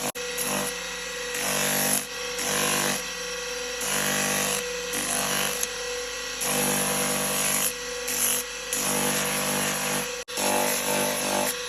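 A motorised workshop tool cutting animal horn, with the horn pressed against it in repeated harsh strokes about once a second over a steady motor hum. There is a brief break about ten seconds in.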